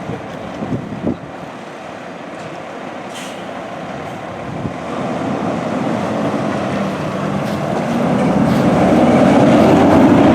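Heavy road vehicle drawing near and passing close, its engine and tyre noise building steadily to a peak near the end.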